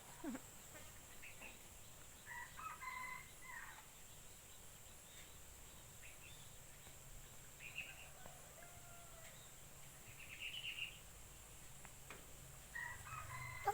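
A rooster crowing faintly, once about two seconds in and again near the end, with a few other faint bird calls in between.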